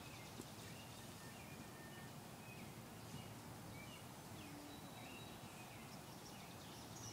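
Faint, scattered bird chirps over quiet, steady background noise.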